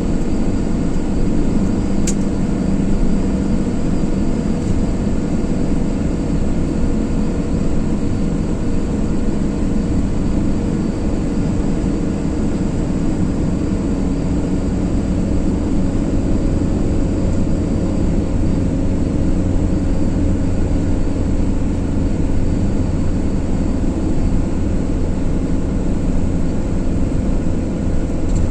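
Car driving steadily at speed: constant road and engine noise with a low steady hum, and a single faint tick about two seconds in.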